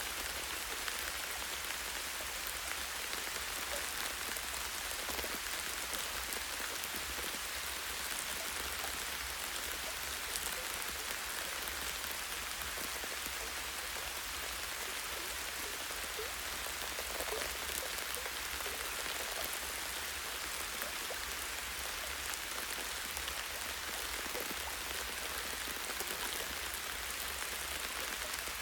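Steady light rain, with raindrops pattering on leaves and a tree branch in an even hiss.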